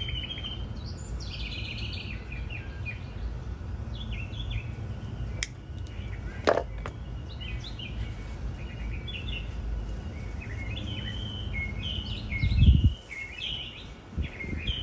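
Small birds chirping and calling on and off over a steady low rumble of background noise. A couple of sharp clicks come about halfway through, and a loud low thump near the end.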